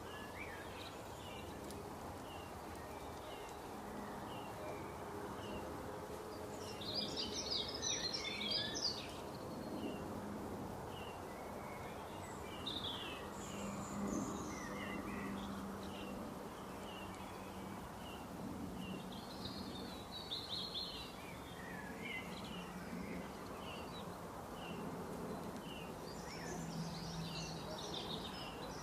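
Birds calling in the woods: a steady series of short chirps, about two a second, with several louder bursts of warbling song, over constant background hiss.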